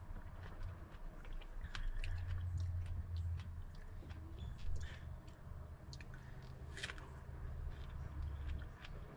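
Close-up biting and chewing of fresh fruit, with small wet clicks and crackles, and light clicks from food being picked off a tray, over a low hum that comes and goes.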